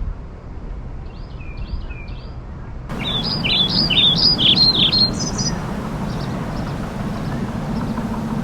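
Songbirds chirping: a few short chirps, then a louder run of quick, rapidly repeated up-and-down notes about three to five seconds in, over steady outdoor background noise with a low hum.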